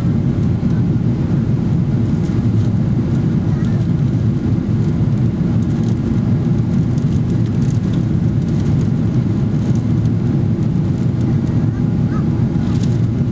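Steady, loud low rumble of cabin noise inside a Boeing 777-300ER, its GE90 engines and the airflow over the fuselage holding an even level with no change in pitch.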